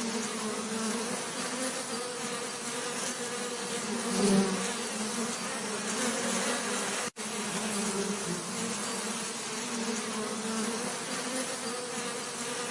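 Bees buzzing in a steady, continuous hum. One swells louder about four seconds in, as if passing close. The sound drops out for an instant about seven seconds in.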